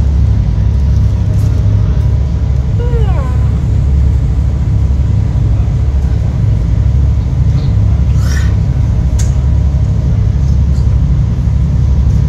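Steady, loud low rumble of a running engine, with a short falling voice-like sound about three seconds in and a couple of faint clicks near the end.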